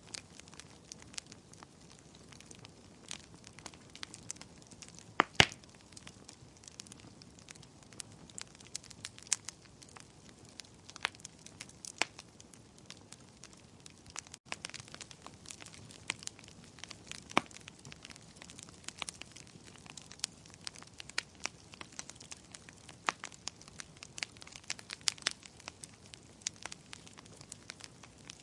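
Bonfire crackling: irregular sharp pops and snaps of burning wood over a faint steady hiss, with one louder pop about five seconds in.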